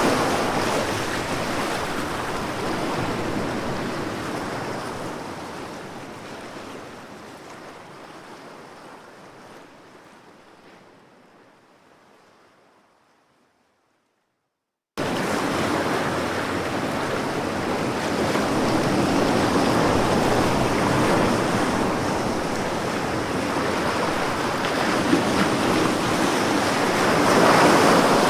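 Sea waves washing onto a shore. The surf fades out slowly over about thirteen seconds to silence, then a second or so later cuts back in suddenly at full level and runs on steadily, swelling near the end.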